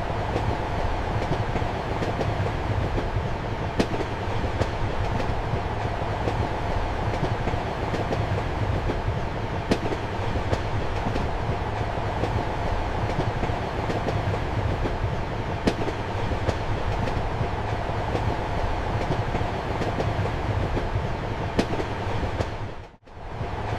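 Steady rumble and hum of a passenger train in motion, heard from inside a compartment, with a faint click of the wheels over a rail joint about every six seconds. Near the end the sound drops out briefly and comes back.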